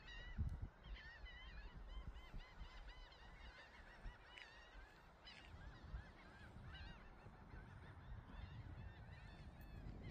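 Birds calling over and over, faint: a stream of short calls that rise and fall in pitch, over a low rumble.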